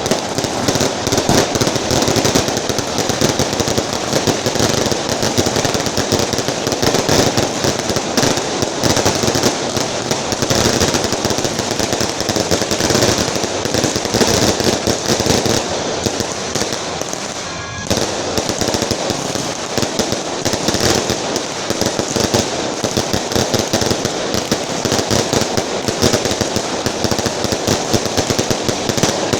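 A firecracker carpet, long strings of firecrackers laid on the road, going off in a dense, continuous crackle of rapid bangs that dips briefly about two-thirds of the way through.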